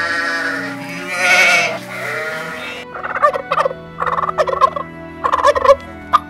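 A sheep gives one long quavering bleat, then a male domestic turkey gobbles in three rapid rattling bursts, over background music.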